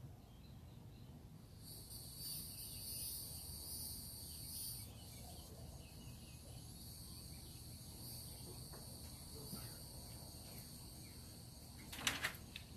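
Cicadas buzzing: a steady high-pitched drone that starts about a second and a half in, is strongest for about three seconds, then goes on more softly. A brief knock near the end.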